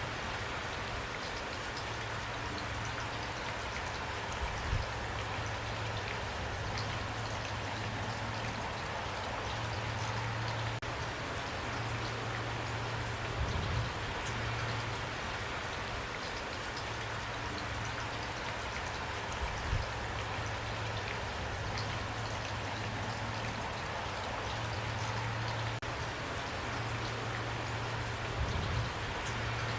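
Steady rain, an even hiss of falling drops, with a few brief low thumps.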